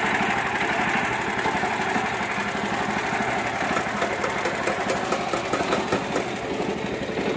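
Mini tractor's engine running steadily with a rapid, even chugging.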